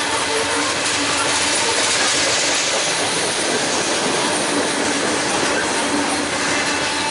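Train rolling past: a steady, loud noise of steel wheels on rail with some clickety-clack and a faint thin squeal.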